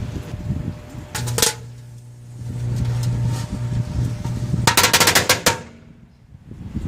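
Firecrackers going off inside a running microwave oven: a couple of sharp bangs about a second in, then a rapid string of pops about five seconds in, over the microwave's steady low hum.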